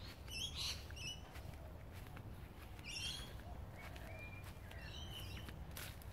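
Small birds chirping in short, high bursts, a few at a time, every second or so, over a low steady rumble.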